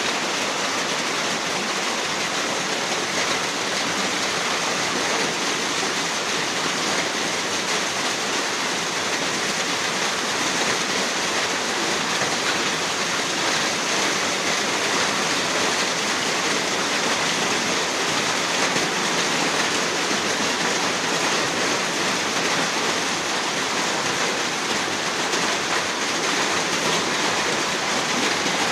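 Heavy rain falling in a steady, even rush of water noise.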